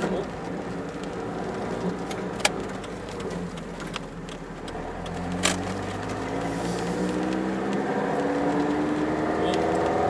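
Mazda Eunos Roadster's tuned four-cylinder engine, with individual throttle bodies and a new Car's CP1 muffler, heard from inside the closed cabin while driving at town speed: it eases off around four seconds in, then pulls again with its pitch rising slowly. Two sharp clicks, about 2.5 and 5.5 seconds in.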